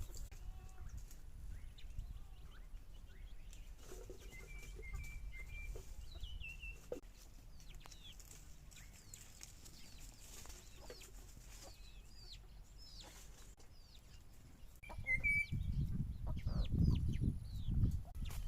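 Farmyard chickens clucking, with many short falling chirps throughout. A louder stretch of low rumbling noise comes in near the end.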